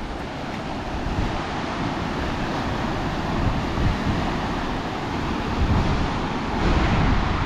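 Sea surging against coastal rocks, a steady rush of surf that swells louder a few times, with wind buffeting the microphone.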